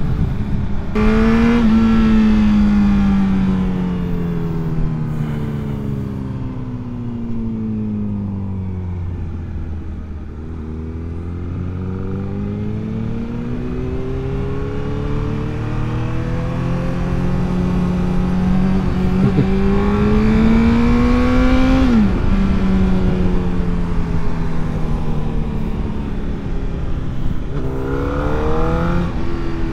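Sport motorcycle engine under way, heard from the rider's seat. The engine note sinks slowly for several seconds as the bike rolls off and slows, then climbs steadily under gentle acceleration until a sudden drop at a gear change. It holds steady before rising again near the end.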